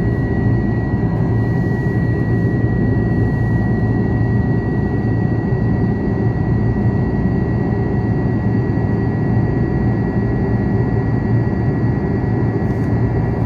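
Steady cabin noise of an Airbus A330-300 airliner in flight: a low rumble of engines and airflow with a thin, constant high whine, unchanging throughout.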